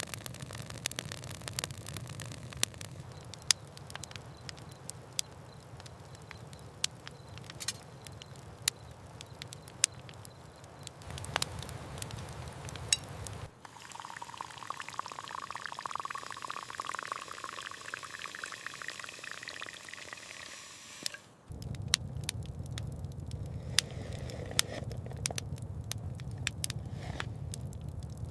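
Wood campfire crackling with frequent sharp pops. For several seconds in the middle, liquid is poured with a steady splashing flow.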